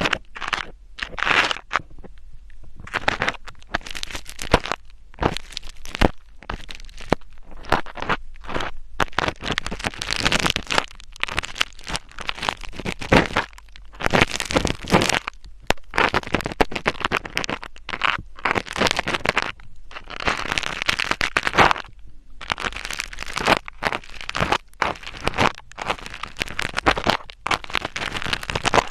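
Close-miked ASMR scratching and rubbing right at the microphone: irregular crackly strokes, some brief and some drawn out for a second or two, with short pauses between them.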